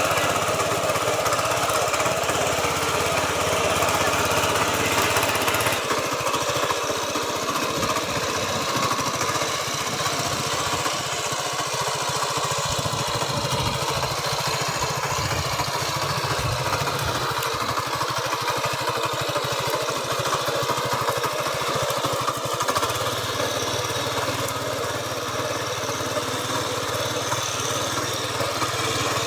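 Mini tractor's engine running steadily, its note changing slightly about six seconds in and again a little after twenty seconds.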